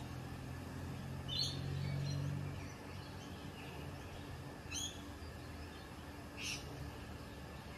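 Birds calling: three short, sharp high chirps about a second and a half, five and six and a half seconds in, with a few fainter ones, over steady background noise. A low hum fades out about three seconds in.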